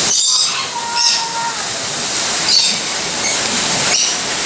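Aviary birds giving short, high chirps and squawks several times, over a steady rushing background noise.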